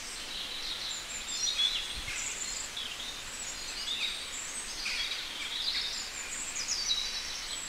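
Small birds chirping and warbling steadily, many quick gliding high notes, over a faint background hiss.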